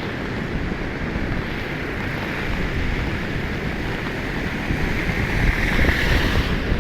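Floodwater of a swollen mountain river rushing in a steady, loud wash, with wind buffeting the microphone; it swells a little about five seconds in.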